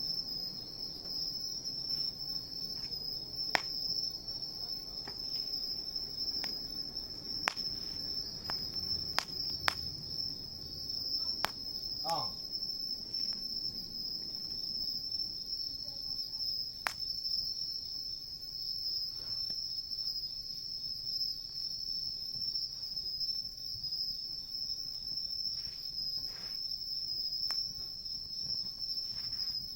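Crickets or other insects trilling in a steady, continuous high chorus, with a few sharp crackles from a wood campfire at scattered moments.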